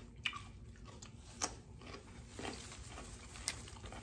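Faint chewing of raw fruit and vegetables close to the microphone, with three sharp, crisp clicks spread over a few seconds.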